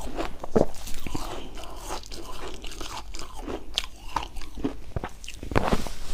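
Shaved ice being bitten and chewed: a run of irregular crisp crunches, with louder bites about half a second in and near the end.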